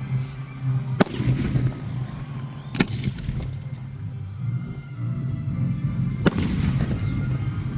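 Fireworks going off: three sharp bangs, about a second in, near three seconds and just past six seconds, each trailing off in an echoing rumble over a steady low hum.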